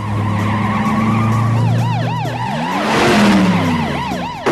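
Police sirens yelping in rapid repeated whoops over a heavy engine running steadily, with a vehicle rushing past about three seconds in.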